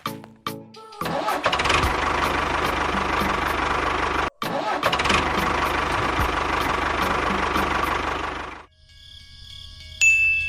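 An engine running steadily. It starts about a second in, cuts out for a moment midway, and stops abruptly about two seconds before the end.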